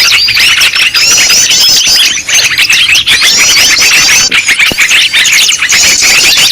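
A dense, loud chorus of agitated small songbirds: repeated curved whistled notes over a continuous stream of rapid chips and chatter. This is a 'noisy birds' lure recording meant to draw all kinds of birds in.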